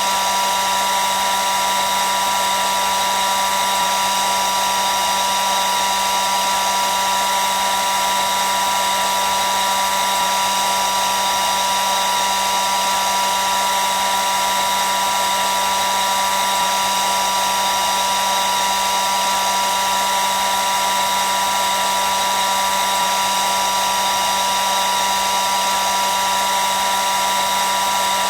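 Hair dryer running steadily: an even, unbroken rushing hiss of air with a constant motor whine.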